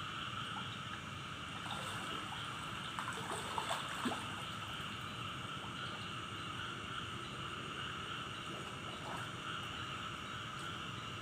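Steady night chorus of insects, with a few brief water splashes about three to four seconds in.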